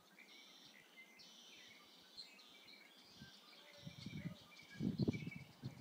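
Small birds chirping and calling in quick, repeated short notes, with a low rumble coming in about four seconds in.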